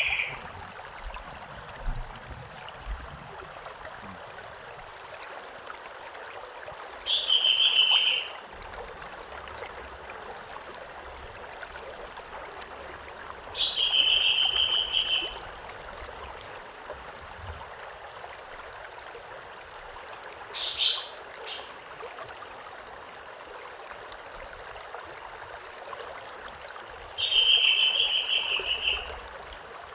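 A river flows steadily with an even rushing sound. Over it a bird calls repeatedly, about every six or seven seconds. Each call is a held, trilled note lasting about a second and a half, and one of the calls is instead two short sharp notes.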